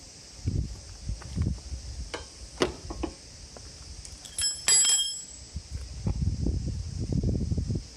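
Handling noises, knocks and rustles, with one bright metallic clink that rings briefly about four and a half seconds in, over a steady high hiss.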